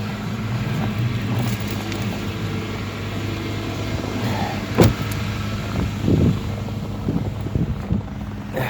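A car engine idling steadily after a winter cold start, with one sharp click about five seconds in and a few softer knocks soon after.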